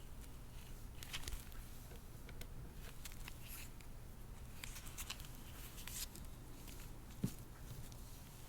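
Faint handling sounds from hands working with a doll and its parts: scattered light rustles and small clicks, with one sharper tap about seven seconds in, over a low steady hum.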